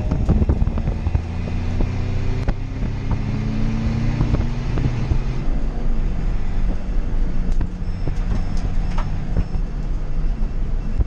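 Toyota Yaris D-4D race car's diesel engine pulling hard, heard inside its stripped cabin: the engine note climbs for a few seconds, drops about five seconds in, then runs steadier, with a low rumble and occasional sharp knocks and rattles from the car.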